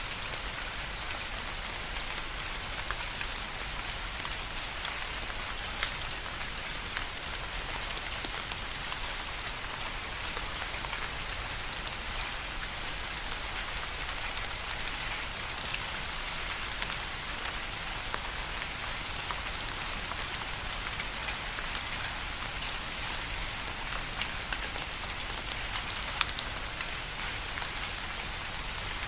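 Steady rain falling, an even hiss with many sharp ticks of single drops scattered through it.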